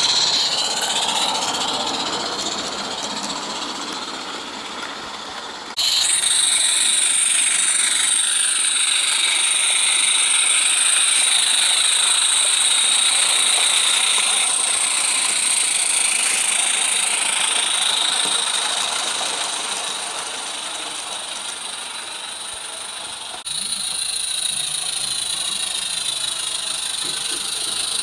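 G-scale live-steam model locomotive running on garden track: a steady high steam hiss with whistling overtones and light running noise. It fades as the engine draws away, then comes back abruptly twice.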